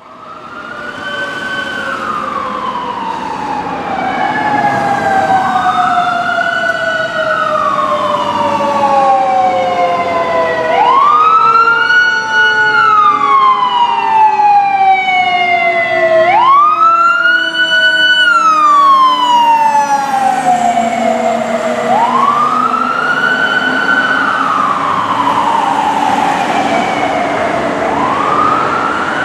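Fire engine siren on a 2014 Pierce Arrow XT pumper running on a response call: a wail that rises quickly, holds briefly and falls slowly, repeating about every five to six seconds. Under it a second, lower siren tone slides slowly downward.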